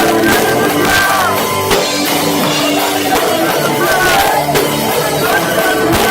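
Live heavy rock band playing loudly: guitars, a drum kit and vocals. The sound is harsh and muddy, as recorded on a cheap cell phone.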